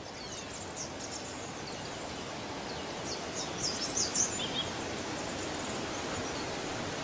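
Steady hiss of tropical forest ambience, with a few short high bird chirps about three to four and a half seconds in.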